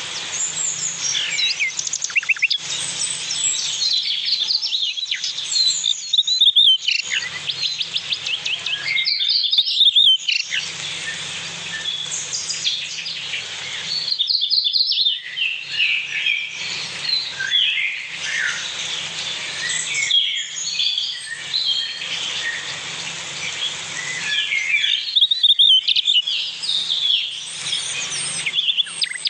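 Several small birds chirping and twittering, with quick trills and overlapping calls, broken a few times by brief drop-outs.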